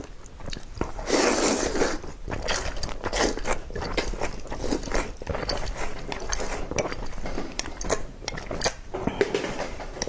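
Close-up eating of fire noodles and eggs: chewing and biting, with repeated small clicks of utensils against a dish and a denser noisy stretch about a second in.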